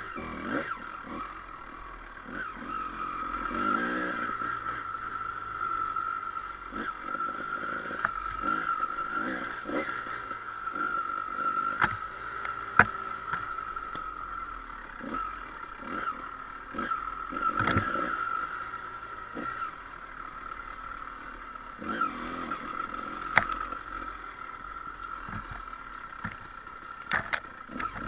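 Dirt bike engine running steadily during a trail ride, with scattered sharp knocks and rattles as the bike goes over rough ground.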